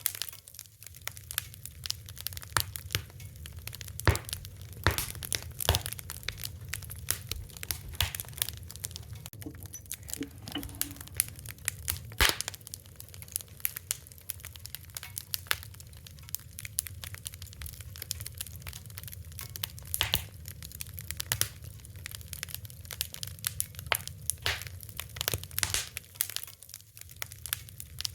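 Wood fire crackling, with dense irregular snaps and a few louder pops over a steady low rumble of flame.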